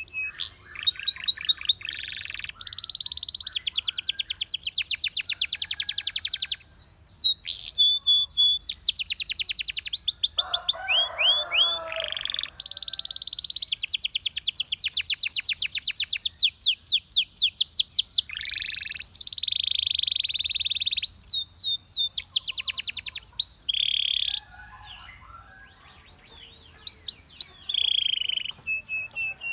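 Belgian canary singing: long, fast, high trills and runs of rapid repeated notes, broken by short pauses. A lower, rougher call comes in briefly about eleven seconds in, and the song drops to a quieter passage about five seconds before the end.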